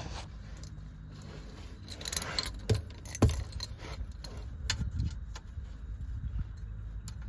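Metal clinks and scrapes of a 10 mm wrench being handled and worked on a ground-cable bolt, with two dull knocks about half a second apart near three seconds in.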